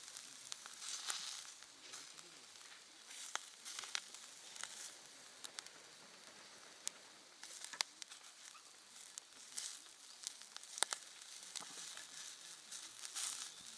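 Wood campfire crackling: irregular sharp pops over a soft hiss that swells and fades.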